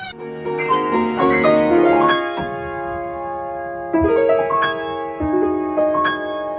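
Piano music: a slow run of struck notes and chords, each left to ring, with new chords about four and five seconds in.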